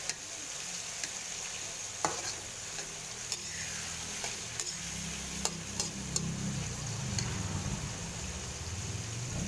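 Chopped tomatoes, onion and garlic sizzling in oil in a wok while a spatula stirs them, with sharp clacks of the spatula against the pan every second or so.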